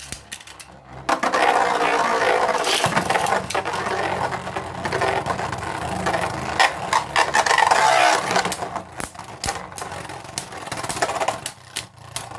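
Beyblade Burst tops, Prime Apocalypse against another Bey, spinning and clashing in a plastic stadium: a continuous whirring scrape with many sharp clacks of contact. It starts about a second in and dies down near the end.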